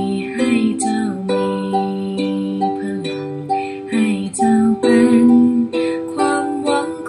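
Ukulele strumming chords in a steady rhythm, the chords changing every second or so as the song goes on.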